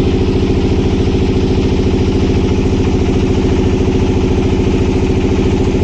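Motorcycle engine running steadily at a low, even speed, with a regular beat of firing pulses.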